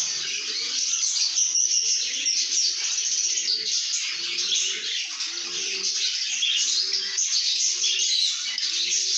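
Pet lovebirds chattering: a dense, continuous twittering of high chirps, with lower notes repeating underneath about once a second.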